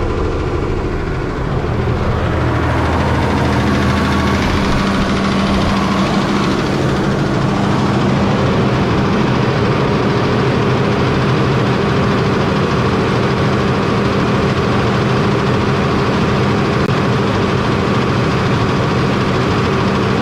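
New Holland tractor's diesel engine running, stepping up to a higher steady speed about two seconds in. The owner hears a ticking from it when revved and suspects a loose rocker-arm hold-down in the valve train; a mechanic thinks it could be a scored piston.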